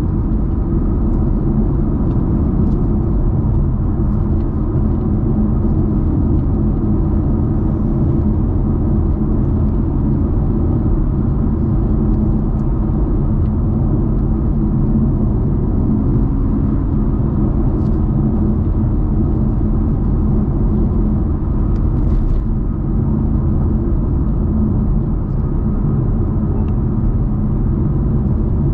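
Muscle car cruising at a steady speed, its engine a low, even rumble under road noise.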